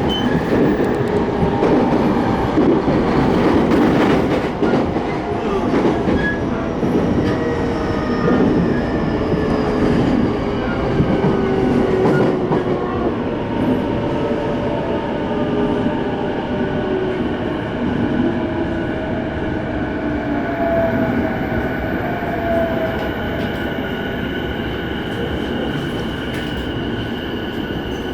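Electric commuter train heard from inside the car: steady wheel-on-rail running noise with a motor whine whose several tones glide slowly down in pitch as the train slows, growing gradually quieter.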